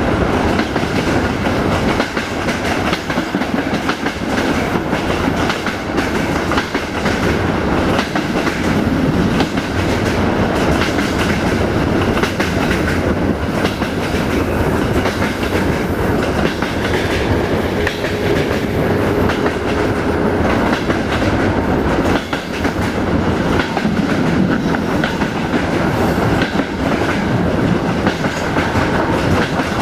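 Passenger train coaches running along the track: a steady rumble of wheels on rails, with clickety-clack from the rail joints.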